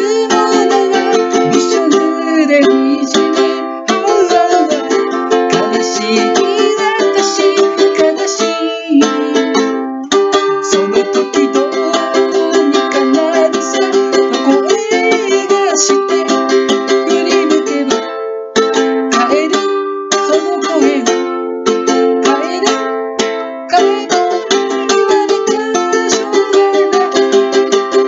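Ukulele strummed in a steady rhythm, playing a song's chord accompaniment, in a small room.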